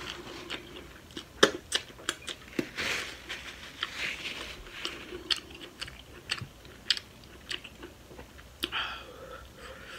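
Close-miked eating sounds: chewing with many sharp wet lip smacks and mouth clicks. A paper napkin rustles against the mouth briefly around the middle.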